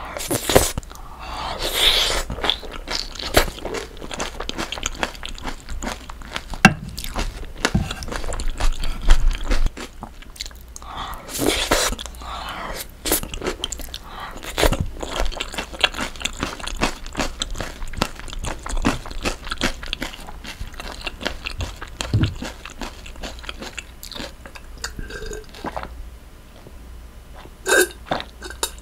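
Close-miked chewing of cream linguine with sliced green chili peppers: wet mouth sounds, crunching and frequent small clicks, with louder bursts of eating in the first couple of seconds and again about eleven seconds in. Near the end, a gulp of water.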